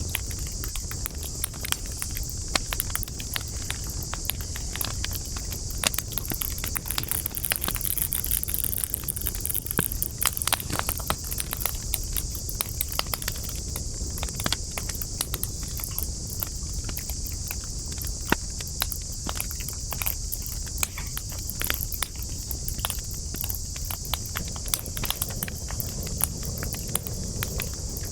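Wood campfire crackling, with many sharp pops and snaps at irregular intervals over a steady low rumble and a steady high-pitched hiss.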